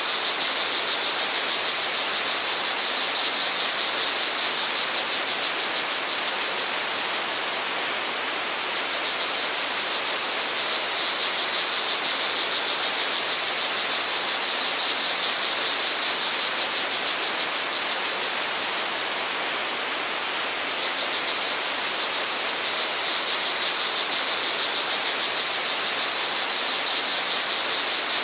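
Steady rush of flowing water from a waterfall or stream, with crickets chirping in a fast, high, pulsing trill that fades out twice and returns.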